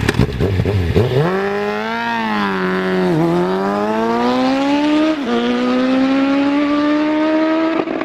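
A high-revving engine accelerating hard through the gears. Its pitch sweeps up from about a second in, then drops at upshifts about three, five and eight seconds in and climbs again after each.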